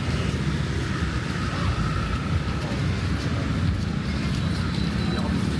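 Street ambience of road traffic: a steady low rumble of passing vehicles.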